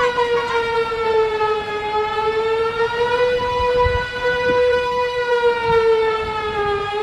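Warning siren holding one long, steady tone with rich overtones, its pitch sagging slightly and rising back twice.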